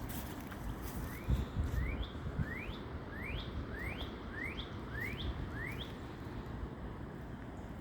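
A songbird singing a run of about ten short notes, each sweeping quickly upward, roughly two a second, starting about a second in and stopping near six seconds. Underneath is a low rumble of wind on the microphone, with a few louder bumps in the first seconds.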